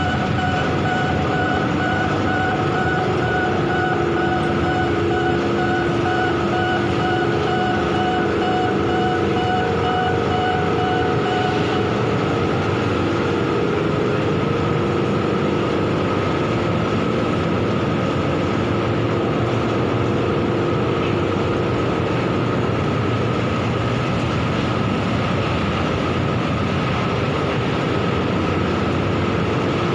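Bucket-wheel stacker-reclaimer machinery running steadily, a continuous heavy mechanical rumble with several high whining tones, one of which drops out about twelve seconds in.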